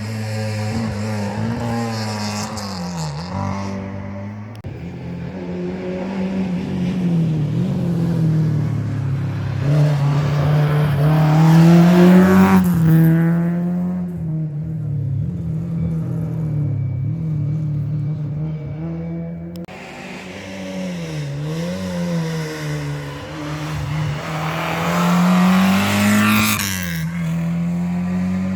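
Historic rally car engines driven hard on a special stage, the revs climbing and dropping again and again through gear changes and lifts. The engines are loudest about twelve seconds in and again near the end, with a quieter stretch between.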